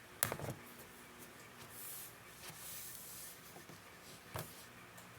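Cloth being handled and rubbed: faint rustling of fabric, with a soft knock just after the start and a single tap about four and a half seconds in.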